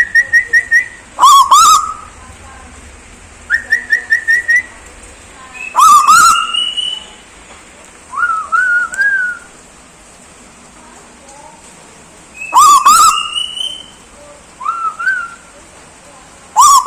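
Bird calling in short bouts. Quick trills of about six rising notes alternate with loud, harsh rising whistles and softer rising whistled phrases, with pauses of a second or two between bouts.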